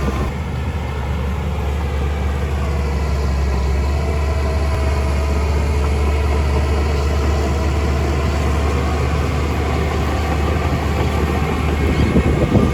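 Heavy diesel engine of earthmoving machinery running steadily with a deep rumble, growing rougher and a little louder near the end.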